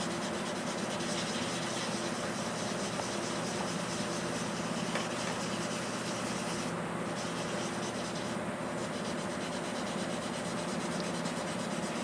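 Sandpaper being worked over a truck's hood: a steady, even sanding noise with a low hum underneath.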